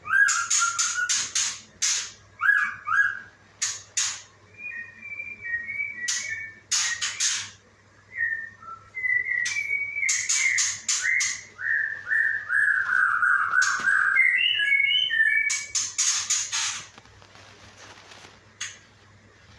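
A songbird singing indoors: clear whistled notes and phrases, including a quick run of downslurred notes in the middle, broken up by clusters of loud, sharp, clicking notes.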